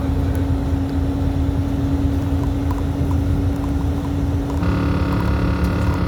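Steady engine and road drone of a truck on the move, heard from the cab, with a constant hum. About four and a half seconds in, a held pitched tone, like a horn, sounds for about a second and a half and stops.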